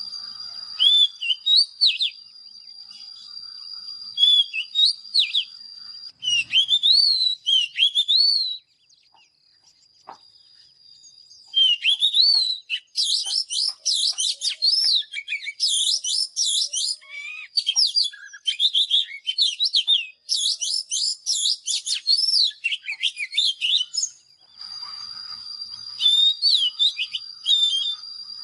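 Oriental magpie-robin singing loud whistled phrases of quick rising and falling notes. The song stops for a few seconds about a third of the way in, then returns as a dense fast run. In the first and last parts a steady high-pitched whine sits underneath.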